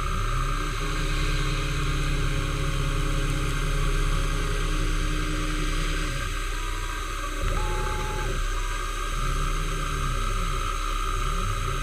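Metalworking machine tool running steadily while machining a metal part: a continuous hum with several steady tones and slowly repeating rises and falls in pitch. The low hum thins out for a couple of seconds near the middle, where a brief higher tone sounds.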